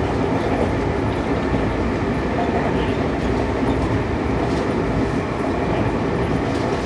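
Running noise of a Seibu 6000 series electric train heard inside a motor car at speed: a steady rumble of wheels on rail and car-body noise, with a few faint clicks.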